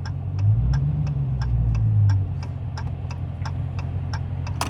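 Straight-piped 6.4-litre HEMI V8 of a 2020 Dodge Charger Scat Pack idling, heard from inside the car, with a short rev that swells and falls back within the first two seconds. A turn-signal relay ticks about three times a second throughout.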